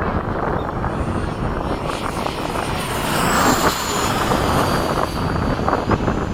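Freewing 90mm F-15 RC jet's electric ducted fan passing, a high whine that swells about three seconds in and falls in pitch, over a steady rumble of wind on the microphone.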